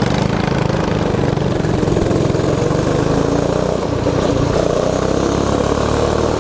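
Mini bike's Predator 212 single-cylinder four-stroke engine running steadily while riding, its note shifting about two-thirds of the way through.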